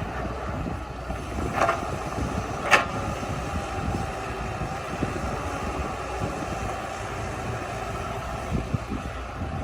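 Diesel engine of heavy earthmoving machinery running steadily, with two sharp knocks about one and a half and nearly three seconds in, the second louder.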